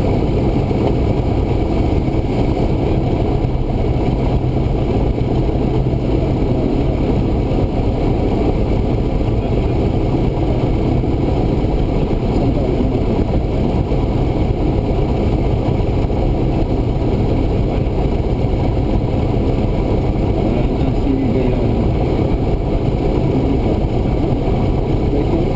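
Cessna 172's single piston engine and propeller running steadily in cruise flight, a constant loud drone.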